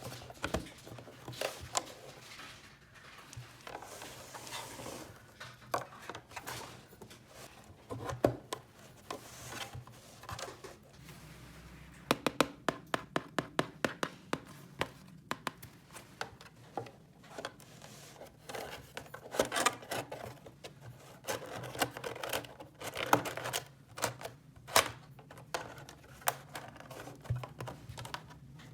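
Hands handling small plastic toy pieces: scattered clicks, taps and rustling, with a run of quick, evenly spaced clicks, about three a second, near the middle.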